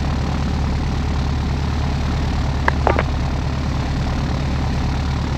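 Piper Seneca PA-34's twin piston engines idling steadily, heard from inside the cockpit. A couple of brief high chirps come a little past halfway through.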